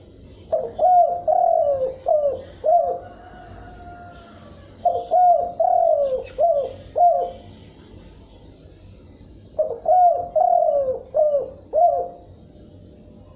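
Spotted dove cooing: three phrases of five or six short, falling coos, a couple of seconds apart.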